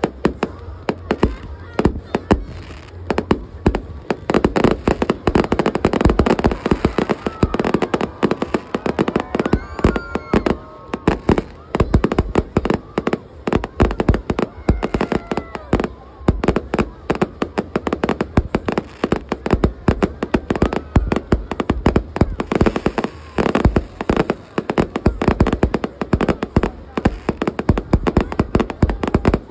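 Aerial fireworks display in rapid barrage, shells bursting in sharp bangs several times a second with no let-up, over crowd voices.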